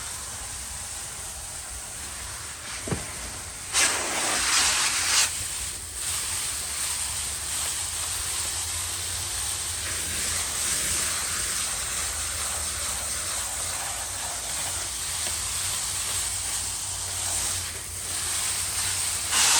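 Cold water spraying through an air conditioner's condenser coils, a steady hiss of spray that grows louder for about a second and a half around four seconds in. A single sharp click is heard just before that.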